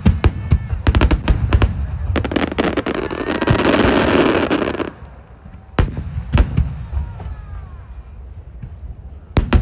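Large aerial firework shells bursting in a rapid barrage, a dense run of sharp booms in the first two seconds and a thick rush of noise in the middle, then thinning to a few single booms, the last near the end.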